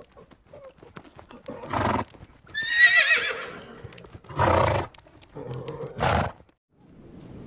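Horse neighing once, a quavering whinny about three seconds in, over scattered hoofbeats. Three short, loud, noisy blasts come about two, four and a half and six seconds in.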